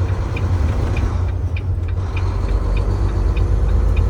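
Tractor-trailer's diesel engine and road noise rumbling steadily inside the cab while driving, with the turn-signal indicator ticking about once every 0.6 seconds for the exit.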